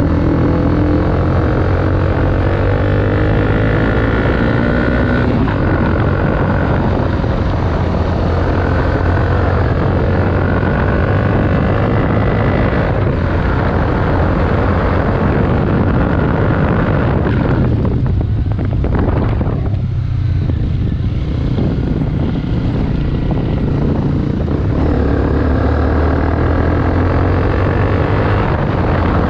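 Honda CBR250R's single-cylinder engine running loud through a Delkevic exhaust with the dB killer removed: a steady, deep exhaust note, with the pitch rising slowly as the revs climb at the start and again near the end.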